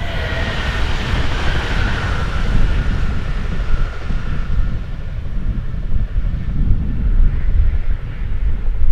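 A red regional passenger train running away after passing close by: a whine from its drive falls in pitch and fades along with the rush of wheels on rails over the first few seconds. Heavy wind buffets the microphone throughout.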